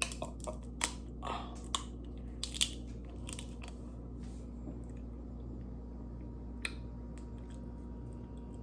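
Crab shell being cracked and pried apart by hand: a quick run of sharp cracks and crunches over the first three seconds, then one more crack near the seven-second mark.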